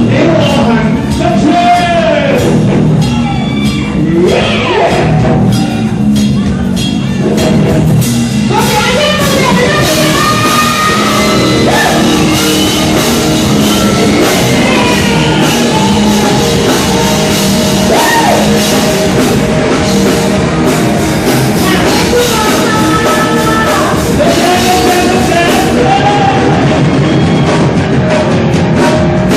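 Rock band playing a song with a lead vocalist singing over guitars and drum kit.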